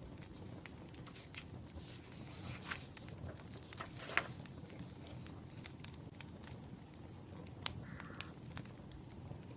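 Wood fire crackling, with scattered sharp pops over a steady low rush of flame; the loudest pops come about four seconds in and again near eight seconds.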